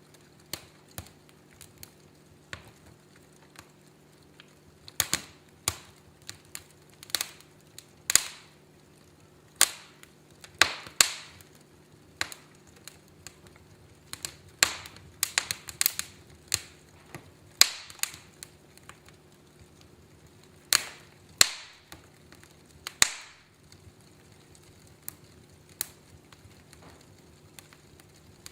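Wood fire crackling in a fireplace: irregular sharp pops and snaps, several loud ones in the middle stretch, with quieter ticks between them, over a faint steady low hum.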